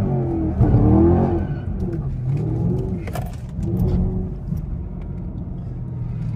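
Car engine revving up and down while the car is spun in a donut, heard from inside the cabin. It is loudest about a second in, then settles into a steadier run.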